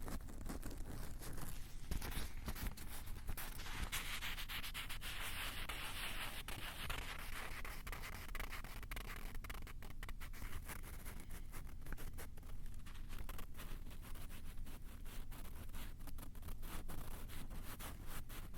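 Close scratching and rubbing on a Tascam recorder's microphones: a dense run of crackling clicks, with a stretch of hissing rubbing from about four to seven seconds in.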